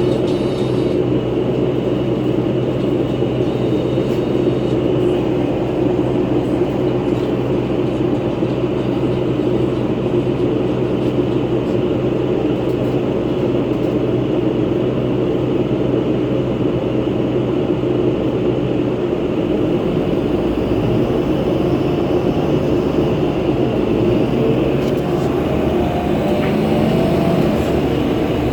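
Interior drone of a 2011 New Flyer C40LF natural-gas bus under way: a steady engine and cooling-fan hum made of several held tones, the fan noise the rider finds weird. About two-thirds of the way through, the low engine note changes pitch.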